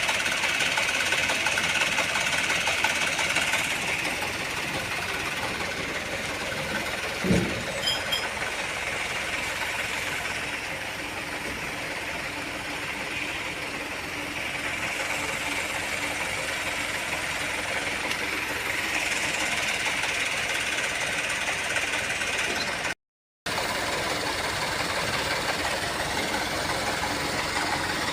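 Diesel truck engine running steadily, with a single short knock about seven seconds in.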